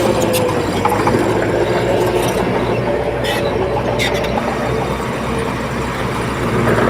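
Bulldozer's diesel engine running steadily under load, with its steel crawler tracks clanking and squealing, two sharper squeals about three and four seconds in.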